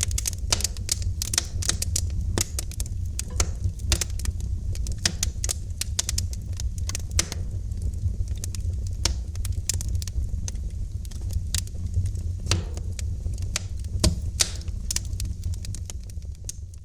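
Wood fire crackling in a fireplace: many irregular sharp snaps and pops over a steady low rumble of the flames, dipping in level near the end.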